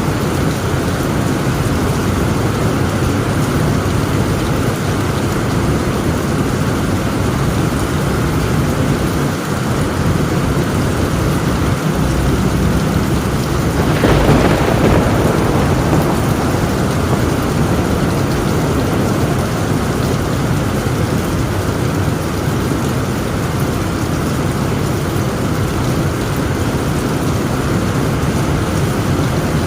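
Heavy rain falling steadily on a tin roof, with a sudden thunderclap about halfway through that rumbles away over a couple of seconds.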